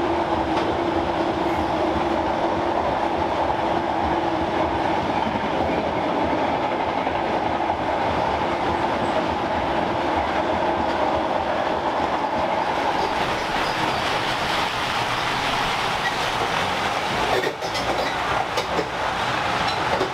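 Loaded car-carrier freight wagons rolling past at speed: a steady rail rumble with wheel clickety-clack and a humming note that dies away about two-thirds of the way through. A few sharp knocks near the end.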